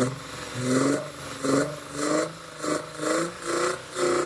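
Hyundai Tiburon's V6 engine revved in quick repeated throttle blips, about two a second, each rising in pitch. It is kind of loud, and the engine is suspected of misfiring, possibly from a vacuum leak.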